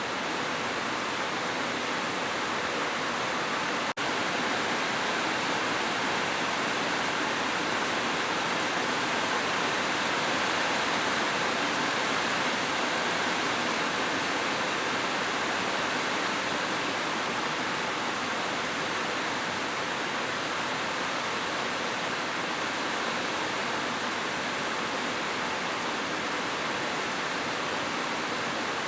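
Heavy rain on a metal roof, falling steadily in a dense, even hiss, with a split-second dropout about four seconds in.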